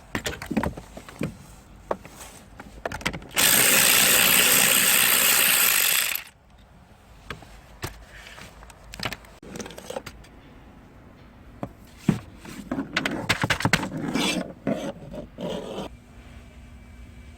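Repeated clicks, knocks and ratchet-like rattling from hand tools and parts being worked on, dense near the end. A loud steady rushing hiss lasts about three seconds a few seconds in, then a low steady hum sets in near the end.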